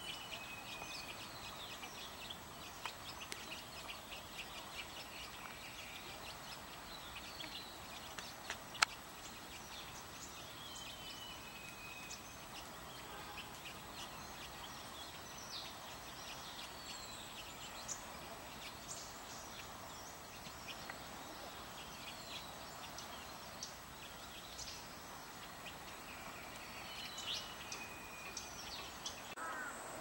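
Small woodland birds calling: scattered short high chirps and thin whistled notes, some falling in pitch, over a steady background hiss. There is a single sharp click about nine seconds in.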